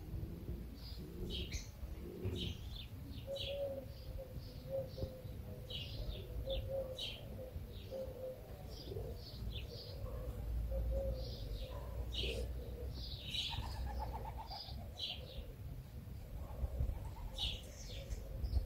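Birds chirping: many short, high chirps throughout, over a steady low rumble.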